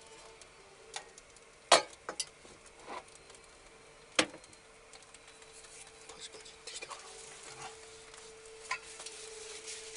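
Scattered clicks and knocks of kitchen utensils and dishes, about six, the loudest about a second and a half and four seconds in, over a faint steady hum, with a soft sizzle-like hiss growing in the second half.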